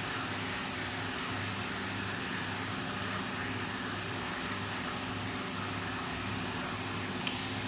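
ACUT 6090 CNC router running: a steady machine hiss and whir with a low hum that cuts in and out every second or so, and one sharp click near the end.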